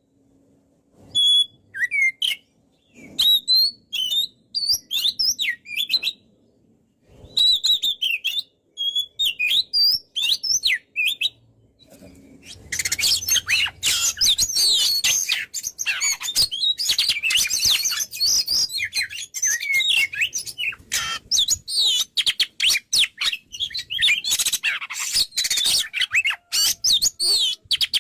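Oriental magpie-robin (kacer) singing rapid, varied whistled phrases. At first it sings in short bursts with pauses; about twelve seconds in it breaks into a dense, near-continuous run of song.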